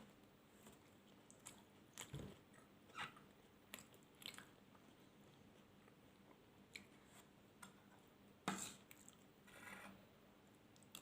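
Close-miked mouth sounds of a person eating: sporadic soft chewing clicks and wet smacks, with the loudest one about eight and a half seconds in.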